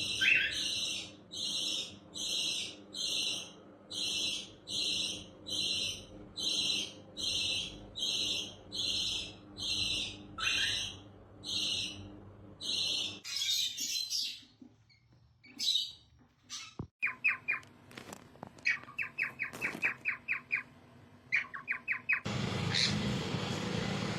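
A bird calling a short, high chirp over and over at an even pace, about three calls every two seconds. The calls stop about halfway through. After a pause come several quick rattling trills, and near the end a steady rushing noise sets in.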